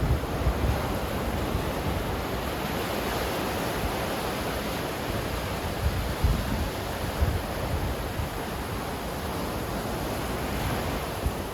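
Ocean surf washing steadily, with wind rumbling on the microphone now and then.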